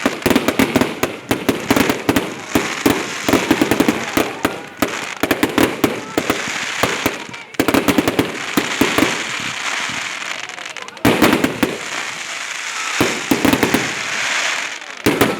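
Fireworks going off in dense salvos of rapid bangs and crackles, with fresh loud salvos starting about halfway through and again about eleven seconds in.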